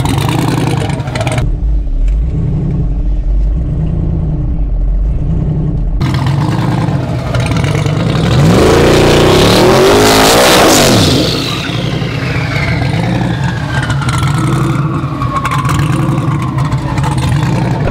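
Turbocharged LS-powered drag truck making a pass down the strip. A muffled low rumble builds to a loud revving engine that peaks about halfway through, then a whine falls steadily in pitch as the truck pulls away.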